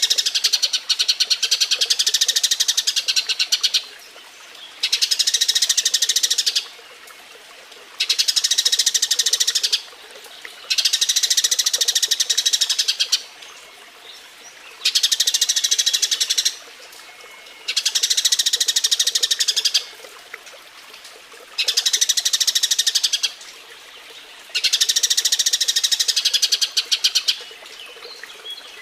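Eurasian tree sparrow breeding chatter: eight bursts of very rapid, high chirping, each lasting about two seconds with a short pause between. This is the excited calling of a sparrow in mating condition.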